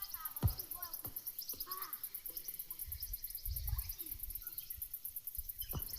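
Outdoor ambience: birds chirping and an insect's fast, steady high pulsing, with gusts of low wind rumble on the microphone and a few sharp knocks.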